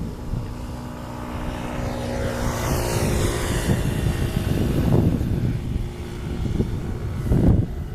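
Boeing 747 freighter's jet engines running as it passes, with a steady drone, a high whine that falls in pitch about three seconds in, and gusts of wind on the microphone.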